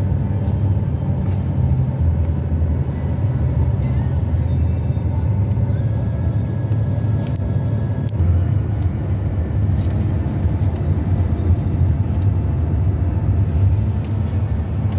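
Steady low rumble of a car driving, with engine and tyre noise heard from inside the moving car.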